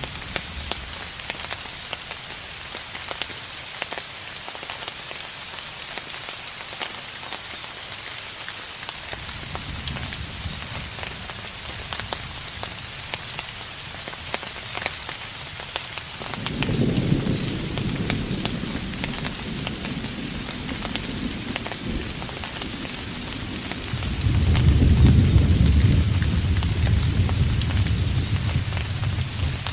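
Steady rain falling, with distinct drops ticking throughout, and distant thunder rumbling low: a faint rumble starts about a third of the way in, swells a little past halfway, and a louder long roll comes near the end.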